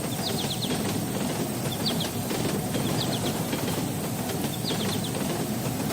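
Steady low rumble of heavy machinery running, with short runs of quick high bird chirps every second or two.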